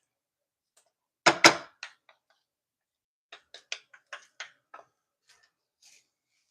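A cooking utensil knocking against a frying pan: two loud knocks about a second and a half in, then a quick run of about seven lighter taps a couple of seconds later.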